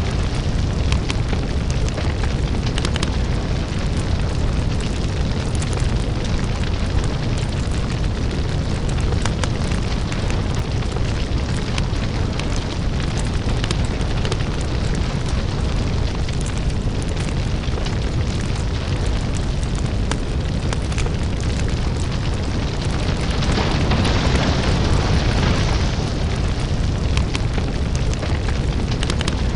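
Crackling lava fire: a continuous deep rumble with dense crackles and pops running through it.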